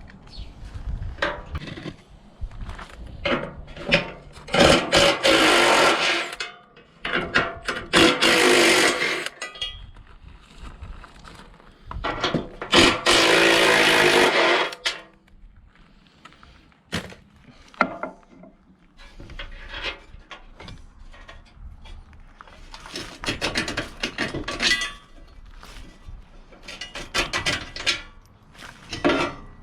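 Workshop tool work: three loud bursts of a power tool, each lasting one to two seconds, in the first half, amid scattered knocks and clanks of metal parts being handled.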